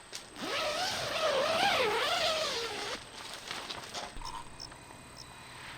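A drawn-out, wavering high-pitched tone, sliding slowly up and down for about two and a half seconds, then stopping. Faint ticks and outdoor background follow.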